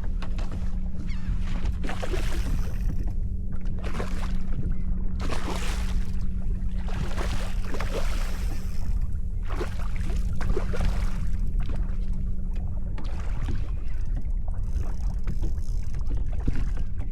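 Water swishing and splashing around a kayak every second or two, over a steady low rumble.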